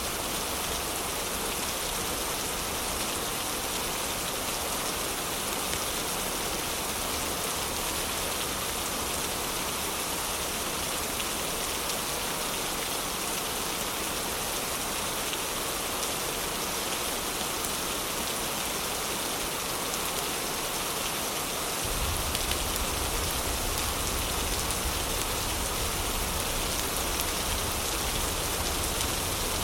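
Heavy rain falling in a steady, dense hiss. About three-quarters of the way through, a deep low rumble of thunder sets in underneath and continues.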